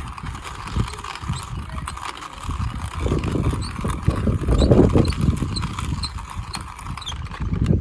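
Strong wind buffeting the microphone in irregular gusts, making a rumble.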